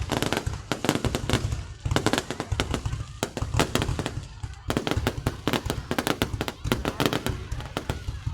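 Fireworks going off in rapid, dense volleys of bangs and crackling, with a brief lull a little past the middle before the barrage picks up again.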